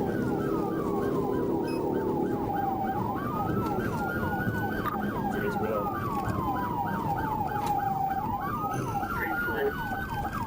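Police car siren sounding two tones at once: a slow wail that falls and rises about every five seconds, and a fast yelp of about three falling chirps a second. A steady vehicle rumble runs underneath.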